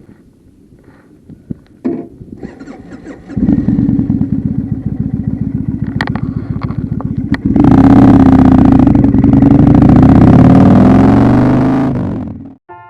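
Kawasaki Vulcan motorcycle engine starting about three seconds in and running with a fast even pulse. It then revs up, louder, for about four seconds and stops abruptly near the end.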